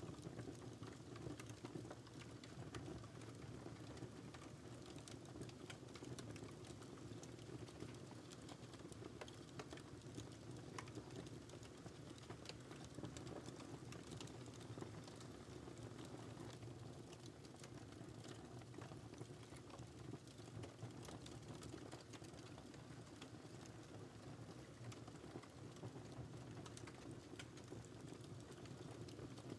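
Wood fire burning in a fireplace: a faint, steady low rush of flame with frequent small, irregular crackles and pops.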